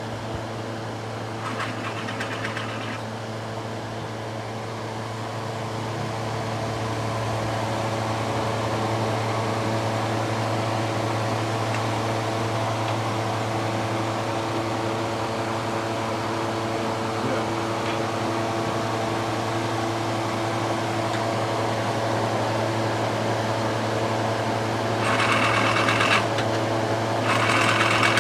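A machine running with a steady hum, joined near the end by two short, louder bursts of a higher, buzzing sound.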